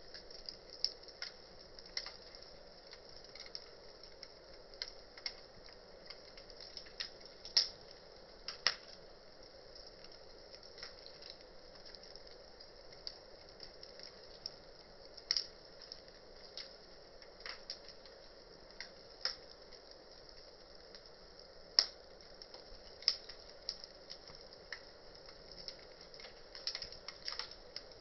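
Wood campfire crackling: irregular sharp pops and snaps of burning wood, a few much louder than the rest, over a faint steady hiss.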